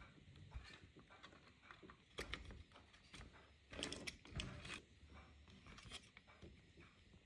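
Faint, scattered clicks and scrapes of small parts being handled during a repair, with a few louder knocks about two, four and six seconds in.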